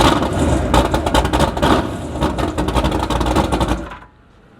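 Powerboat drive being shifted into gear while it is checked for a suspected drive fault: engine-like rumble with a rapid run of sharp clicks and clunks, which drops away about four seconds in.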